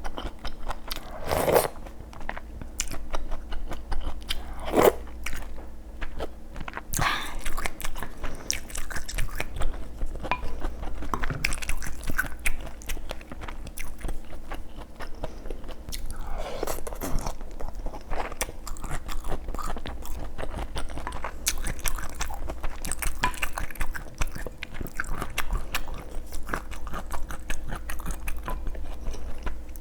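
Close-miked eating: a person biting, chewing and crunching food, with many small wet clicks and a few louder bites.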